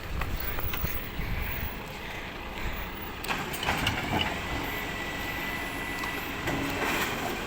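Recycling truck's engine running, with a few knocks and clatters and a steady high whine through the middle few seconds.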